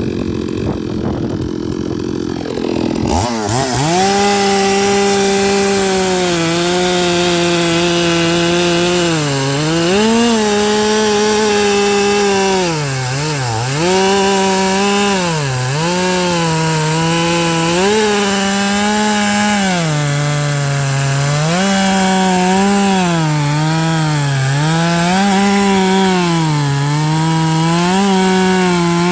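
Stihl MS 382 two-stroke chainsaw cutting eucalyptus logs. About three seconds in it goes to full throttle, and its engine speed repeatedly drops and recovers as the chain bites into the wood under load.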